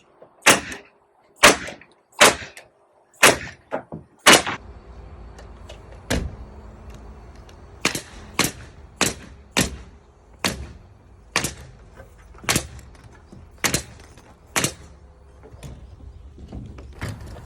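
Nail gun driving ring-shank nails through roof sheeting into the trusses: about twenty single sharp cracks, one per nail, roughly half a second to a second apart, with a short pause around five seconds in.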